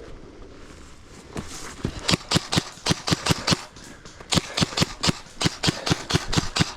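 Airsoft gun firing a rapid string of shots, about four or five a second, with a short pause about halfway through before the shots resume.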